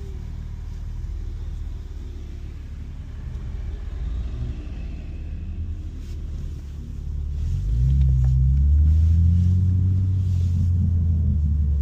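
BMW G82 M4 Competition's S58 twin-turbo straight-six rumbling at low speed; about seven and a half seconds in it rises in pitch and gets louder, then holds steady.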